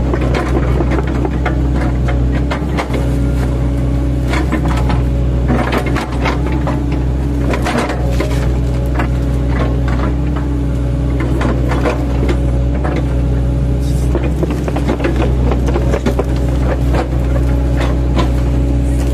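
Mini excavator's diesel engine running steadily under load, with repeated cracking and crunching as its bucket, fitted with chipping blades, chops up oil palm trunks.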